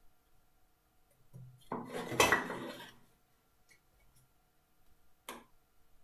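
Hand tools clattering against each other and the workbench as they are handled and set down, with a loud clatter about two seconds in and a single sharp click near the end.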